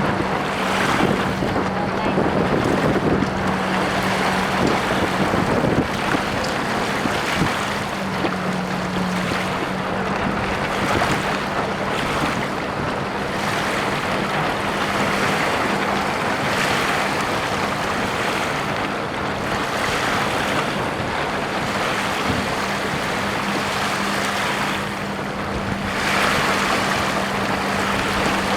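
Wind buffeting the microphone and water rushing along the hull of a sailboat moving fast, swelling and easing every few seconds, with a steady low hum underneath.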